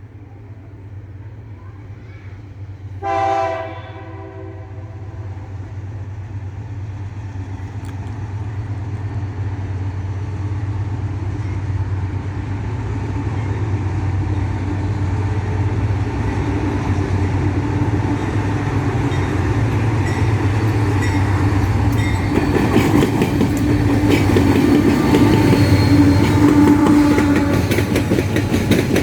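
GE AC44i diesel-electric locomotives hauling an empty ore train sound their horn once, briefly, about three seconds in, then the engine rumble grows steadily louder as the train approaches. Near the end, wheel and wagon clatter joins the engine sound as the train passes close by.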